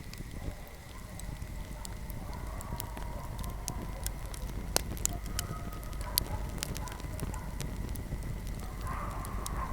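Wood fire crackling, with frequent sharp pops over a low steady rumble of the flames. Faint wavering, whistling tones run under the crackle and grow a little stronger near the end.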